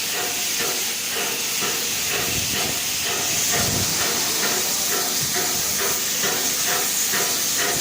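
Steam locomotive 6233 Duchess of Sutherland, an LMS Princess Coronation Class Pacific, standing with steam hissing steadily. A quick regular pulsing of about three or four beats a second runs underneath.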